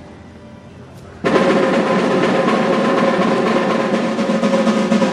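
A drum roll that starts abruptly about a second in and then continues loud and steady.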